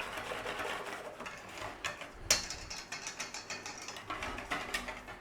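Whisk beating Yorkshire pudding batter in a bowl: rapid, even clicking and scraping strokes as the flour is mixed into the milk and egg.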